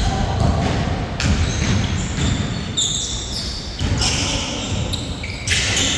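Basketball bouncing during a game, with short high squeaks now and then.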